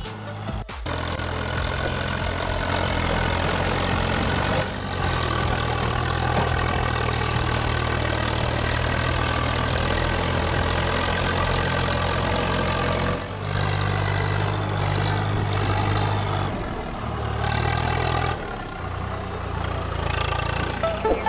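Tractor engine running steadily, its pitch and loudness stepping abruptly up and down several times.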